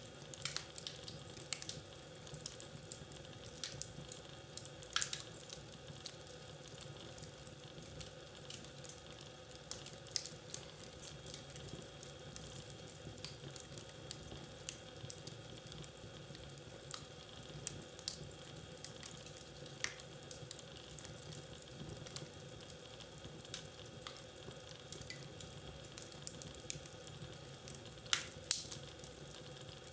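Wood fire crackling in a fireplace: a soft steady hiss with irregular sharp pops and snaps, one louder pop near the end.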